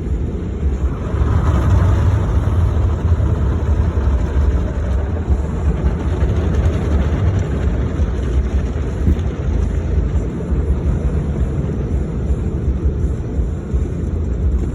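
Automatic car wash running, heard from inside the car: a steady, loud rumbling noise of the wash equipment and water on the car.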